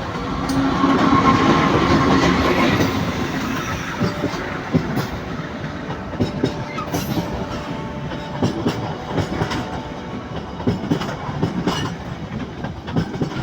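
A train rolling past, loudest in the first few seconds with a steady rumble and hum, then a run of sharp clicks and knocks as the wheels cross the rail joints.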